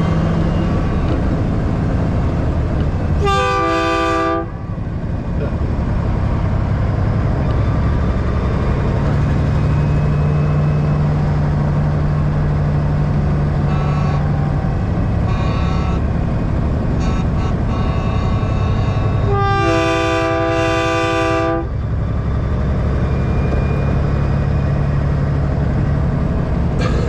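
Diesel semi-truck engine running steadily, with two blasts of a multi-tone train-style air horn. The first blast, about a second long, comes a few seconds in. The second, about two seconds long, comes about two-thirds of the way through.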